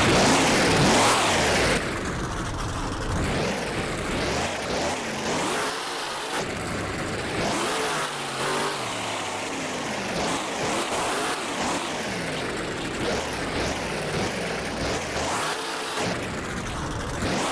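Monster truck engine revving hard again and again, its pitch rising and falling, loudest for the first couple of seconds.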